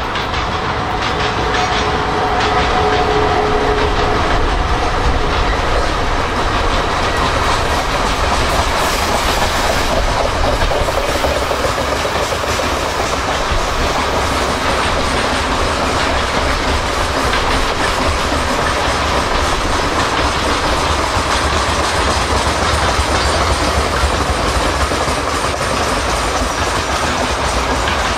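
A long freight train of open gondola wagons, hauled by a VL10 electric locomotive, rolling steadily past: a continuous rumble and clickety-clack of wheels over the rails. A short whine sounds for the first few seconds as the locomotive goes by.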